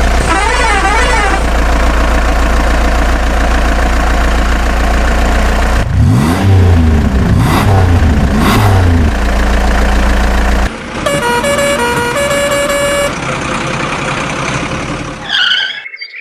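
Truck engine sound effect running and revving up and down a few times in the middle. Near the end comes a musical horn playing a short tune of stepped notes.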